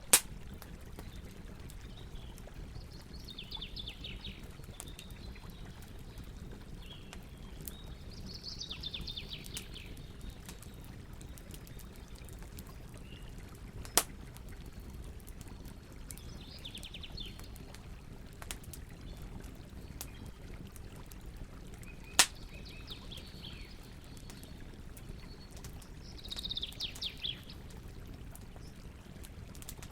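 Campfire burning with a steady low rush and sharp crackling pops, three of them loud, while birds sing short trilling phrases every few seconds.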